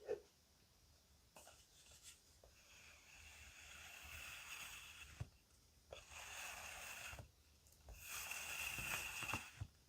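Faint rustling of a plastic bag being handled, in three long stretches of soft hiss, with a small click at the start.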